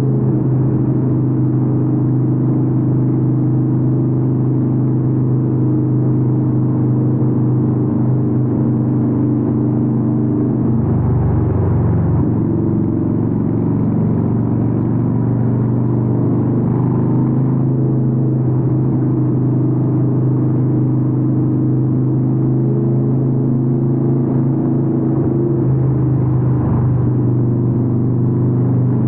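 Harley-Davidson 883N's air-cooled V-twin running through Vance & Hines exhausts under way, a steady deep exhaust note. The pitch shifts lower briefly about eleven seconds in and again about twenty-six seconds in.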